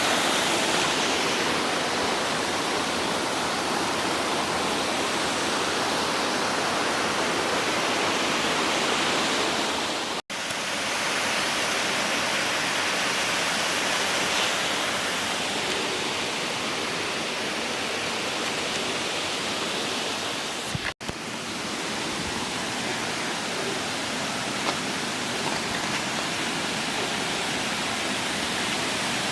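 Waterfall cascades rushing: a steady, even sound of falling water. It cuts out for an instant twice, about ten seconds in and again about twenty-one seconds in.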